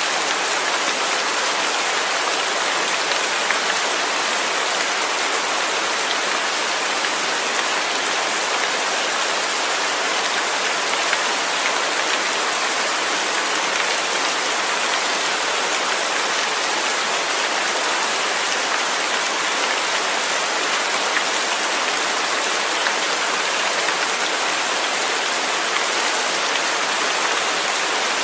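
Steady rainfall: an even, unbroken hiss of many drops falling.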